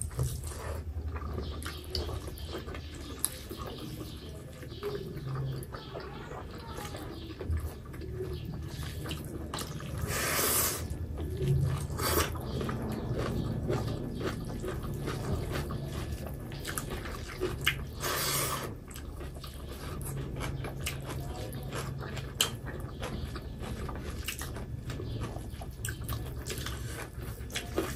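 Close-miked mukbang eating: wet chewing, lip smacks and mouth clicks of two people eating pork and rice by hand, over a low steady hum. Two louder brief noisy sounds come about ten and eighteen seconds in.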